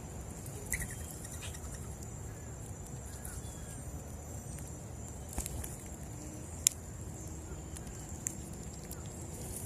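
Quiet outdoor morning ambience at a seed feeder: a steady high-pitched buzz over a low rumble, with a few faint bird chirps near the start and scattered sharp ticks.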